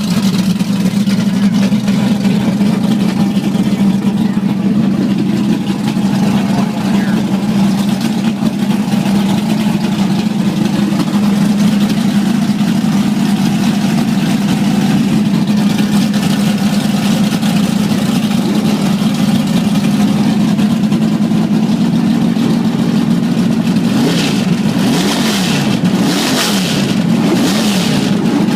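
Loud drag car engine running at a steady idle, then revved up and down a few times near the end.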